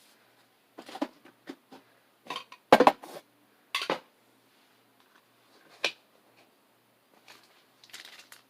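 Hard plastic and cardboard card packaging being handled on a table: a string of irregular clicks, clatters and rustles, loudest about three and four seconds in.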